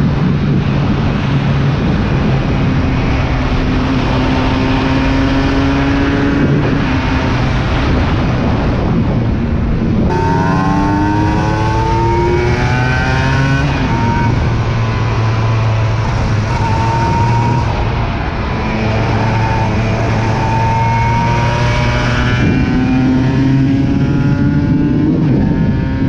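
Aprilia RS 125 motorcycle engine pulling hard, heard from on board with wind rush. Its note climbs in pitch several times as it revs up, with steadier stretches in between.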